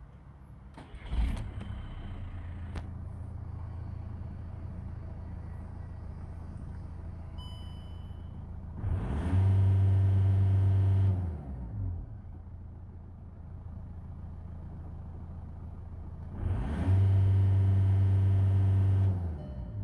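VW Touran's 1.9 TDI Pumpe-Düse four-cylinder diesel (BXE) starts about a second in and idles steadily. It is revved up and held briefly twice, dropping back to idle each time, as a test of a used engine.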